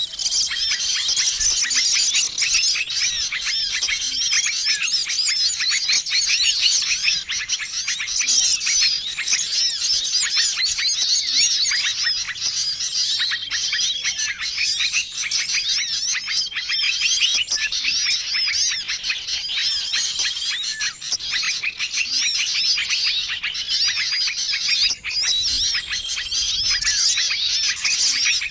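Dense, busy chorus of many small birds chirping and warbling at once, with a short level whistle that comes back every few seconds. This is a bird-lure call mix meant to draw wild small birds in.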